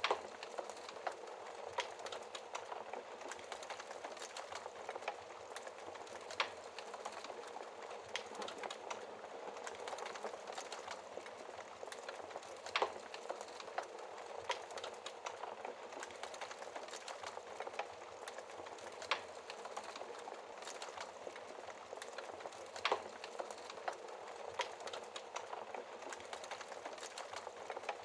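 Wood fire burning in a fireplace: a steady low hiss and sputter with irregular crackles, and a sharp louder pop every few seconds.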